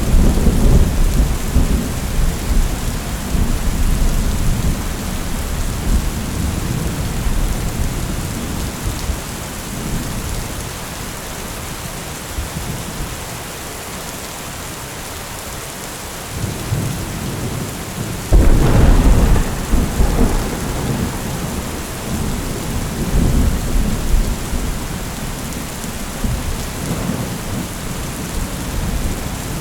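Thunderstorm: steady rain with rolling thunder. A long rumble at the start dies down after about ten seconds. Past the middle comes a sudden loud crack of thunder that rumbles on for several seconds.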